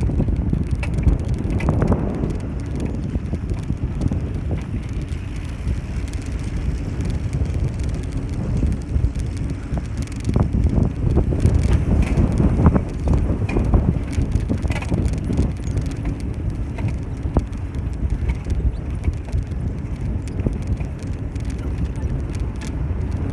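Riding a bicycle: low wind buffeting on the microphone and tyre rumble on the road, with scattered light clicks and rattles.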